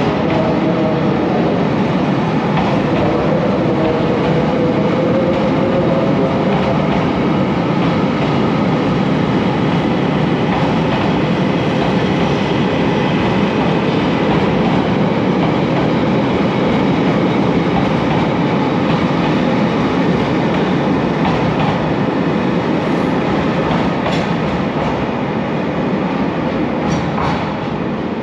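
A train running on the rails: a loud, steady rumble, with a faint wavering whine in the first few seconds, easing off slightly near the end.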